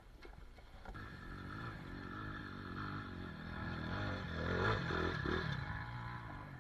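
Trail motorcycle engine running faintly, its pitch wavering with the throttle. It starts about a second in, builds up, then eases off near the end.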